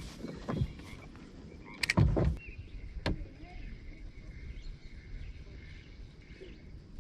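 A few knocks and thumps in a canoe, the loudest cluster about two seconds in, over low rumbling handling noise.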